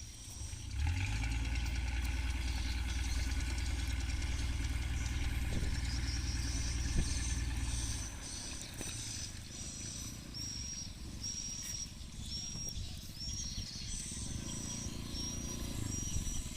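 A motor engine running with a low steady rumble that drops away about eight seconds in. After that, a short high chirp repeats about every half second over the background noise.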